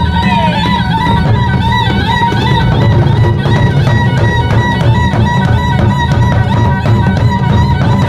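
Thai traditional music of the kind played for Nang Yai shadow-puppet performances: a wavering, sustained melody over steady drumming.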